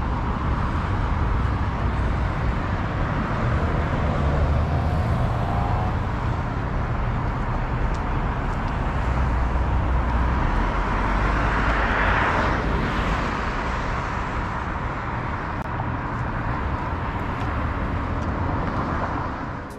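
Road traffic on a street with a steady low rumble; one vehicle swells past about twelve seconds in.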